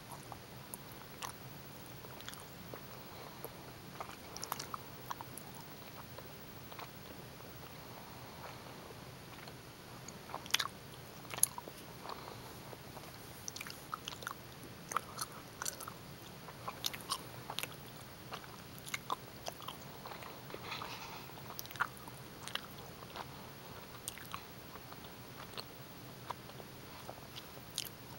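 Close-miked chewing of gummy bears: irregular wet, sticky mouth clicks and smacks, thickest from about ten seconds in, over a faint steady hiss.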